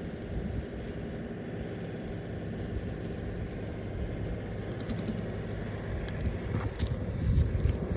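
Farm tractor engine running steadily with a low rumble, getting somewhat louder toward the end as it approaches, with a few light rattling clicks in the last few seconds.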